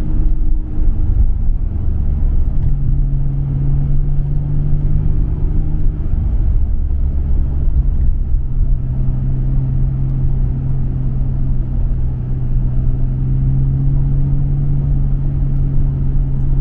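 Nissan Skyline R34 GT-R's RB26 twin-turbo straight-six running at a steady, gentle cruise through a MINES exhaust, with a low drone. Its pitch rises a little about three seconds in and settles lower again about six and a half seconds in.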